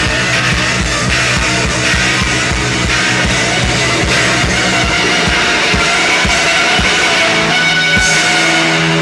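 Live rock band playing loud, with fast, dense drumming under sustained low notes; a low note is held from about eight seconds in.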